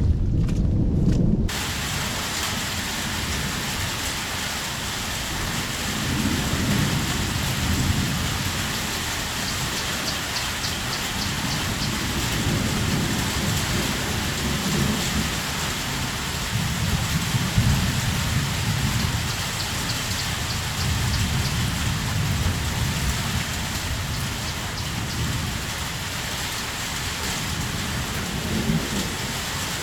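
Heavy rain falling steadily, with a low rumble that swells and fades several times. For about the first second and a half the sound is muffled and dull, then the full, bright sound of the rain cuts in suddenly.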